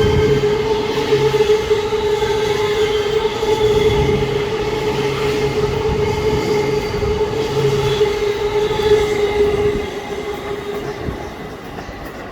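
JR East E257 series limited express train passing through a station at speed: a loud running rumble with a steady high whine over it. It falls off about ten seconds in as the train goes by.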